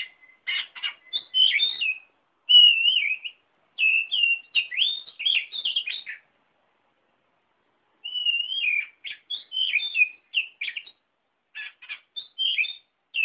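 Songbird singing: quick, high-pitched warbling phrases of chirps and whistled notes, broken by about two seconds of total silence some six seconds in.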